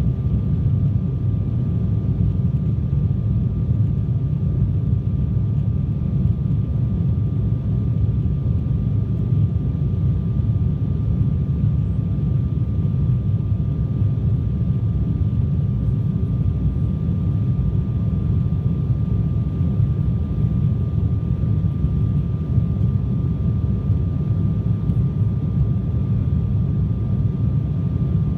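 Steady noise of an Embraer regional jet's turbofan engines and airflow in flight: an even low rumble with a thin, steady whine above it, unchanging throughout.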